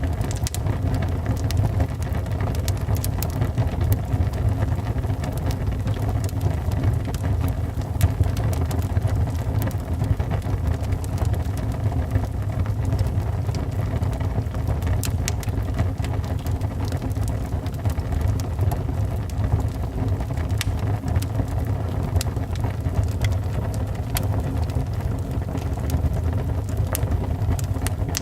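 Wood fire burning in a fireplace: a steady low rumble with frequent small, irregular crackles and pops from the burning wood.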